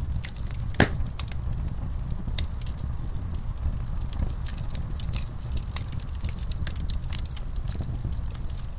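Wood fire burning in a fireplace: irregular crackles and small pops over a steady low rumble of flame, with one louder pop just under a second in.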